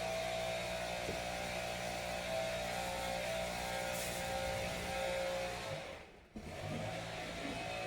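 A steady mechanical hum with several level tones, which cuts out briefly about six seconds in and then comes back.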